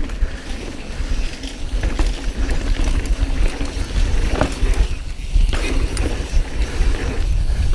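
Mountain bike riding down a trail: wind rumbling on the microphone, with scattered light clicks and knocks from the bike rattling over the ground.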